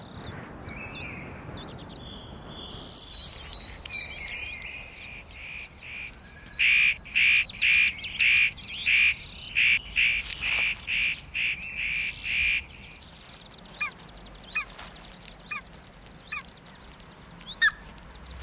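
A bird calling: a run of about a dozen loud, evenly repeated call notes, about two a second, lasting some six seconds, with quieter notes before it and scattered short chirps afterwards.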